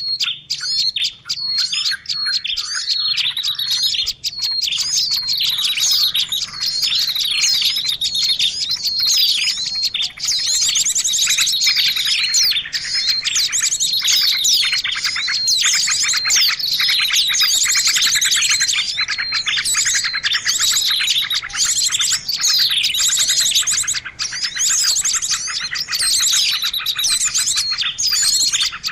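A dense chorus of many small birds chirping at once, overlapping high twitters and rapid trills, sparser at first and thickening a few seconds in. It is a bird-trapping lure call recording meant to draw in small birds.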